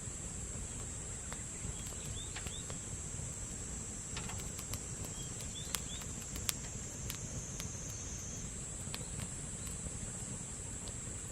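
Wood campfire crackling, with scattered sharp pops, one louder snap about six seconds in. Under it runs a steady high-pitched insect drone.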